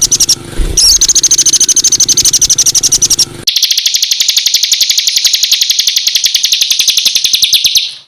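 Songbird giving a loud, harsh rapid-fire song ('tembakan kasar'), an even run of high notes at about ten a second. About three and a half seconds in, it switches abruptly to a second, buzzier rapid run that cuts off near the end.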